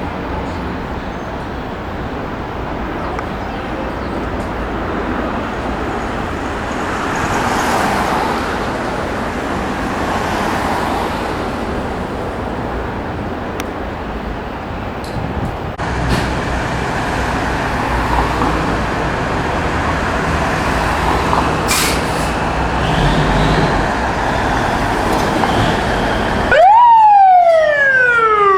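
Steady city-street traffic noise with a low engine hum. About two seconds from the end, a fire engine's siren starts loudly: a sharp rise, a slow falling wail, then it rises again.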